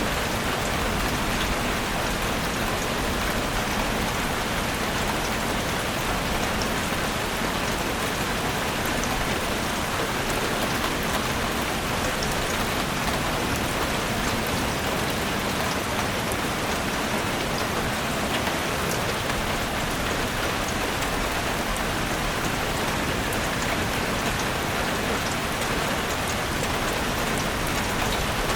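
Steady rain falling in a forest, a dense even hiss with many fine drop taps on leaves and surfaces.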